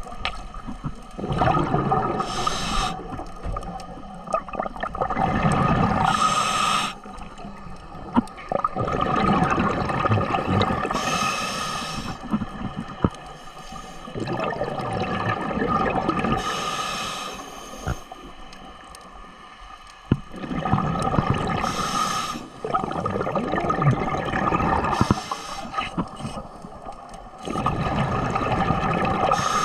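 Ocean water surging and sloshing in swells that build and fall back every few seconds, with wind buffeting the microphone and a few sharp knocks.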